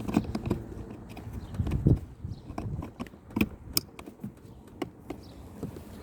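Irregular clicks and knocks of a plastic car door trim panel and its fittings being handled and pushed into place, with a couple of heavier thumps in the first two seconds and sharper clicks later.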